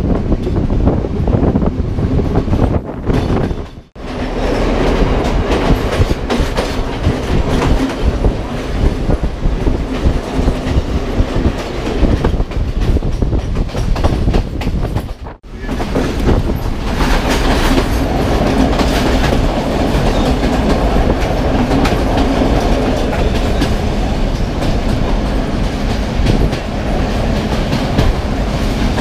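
Passenger train running on the rails: a steady loud rumble with wheels clattering over the rail joints. The sound drops out briefly twice, about four seconds in and again near the middle.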